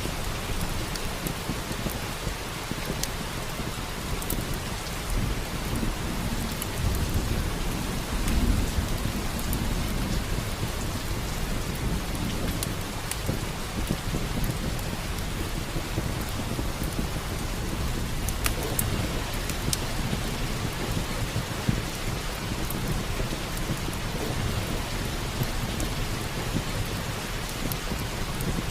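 Steady rain with a low rumble of thunder swelling about seven to nine seconds in, and scattered sharp crackles of a wood fire in a fireplace.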